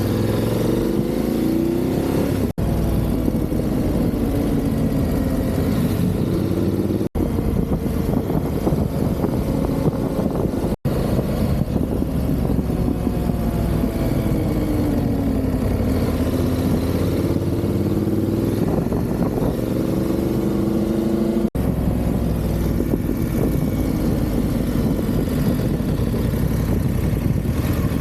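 Motorcycle engine under way, its pitch rising and falling with throttle and gear changes, over a steady low rumble of wind and road noise. The sound cuts out for an instant four times.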